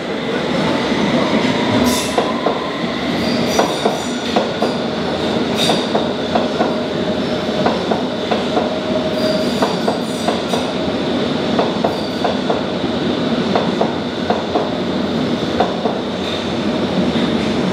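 London Underground train running past on the neighbouring track, its wheels clattering with frequent sharp clicks under a steady high-pitched squeal.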